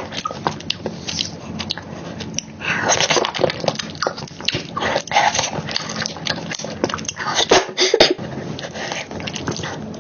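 Close-miked eating sounds: chewing and wet mouth smacking on a soft chocolate cake-and-cream dessert, with many irregular small clicks and squelches.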